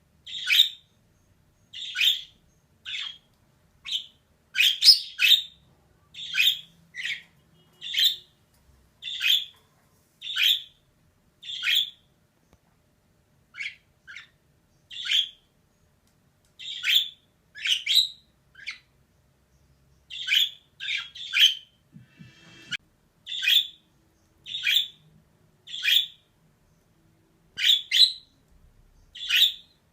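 Female budgerigar calling: short, sharp chirps repeated about once a second, with a couple of brief pauses.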